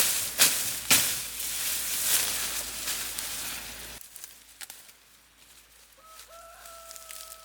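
Loud crackling hiss with sharp snaps, which stops suddenly about four seconds in. Near the end, a rooster crows once: one long call held at a nearly steady pitch.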